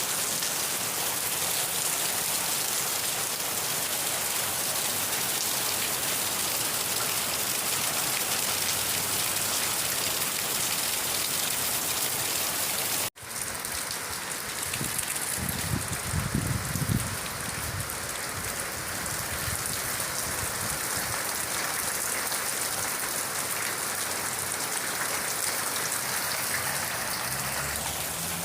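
Steady rain falling, an even hiss of drops. About halfway through it cuts out for an instant and resumes with a slightly different texture, and a low rumble rises and fades over a couple of seconds soon after.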